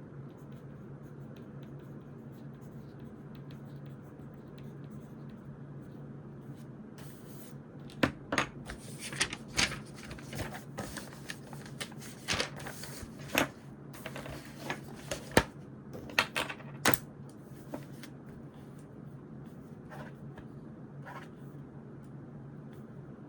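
Stationery and paper handled at a study desk: a run of sharp taps, clicks and short paper rustles over about ten seconds in the middle, over a steady low room hum.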